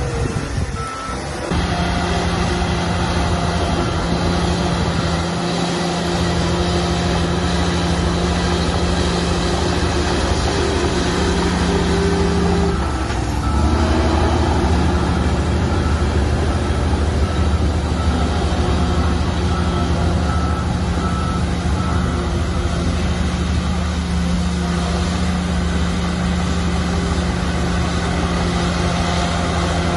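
Heavy diesel earthmoving machinery running steadily, its engine note shifting near the middle. A faint beeping comes and goes in the middle.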